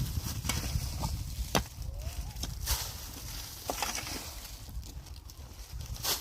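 Irregular clicks and knocks, about a dozen, the sharpest about a second and a half in. A low rumble runs under the first two seconds.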